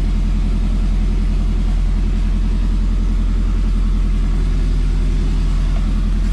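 Turbocharged Honda H22A four-cylinder idling steadily at about 1,300 rpm on its first tune.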